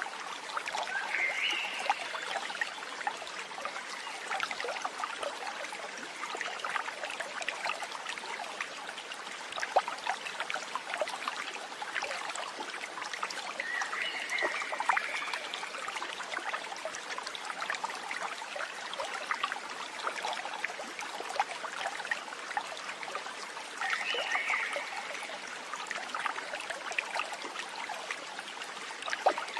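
Running stream trickling and babbling steadily, with a short animal chirp recurring at intervals of about ten seconds.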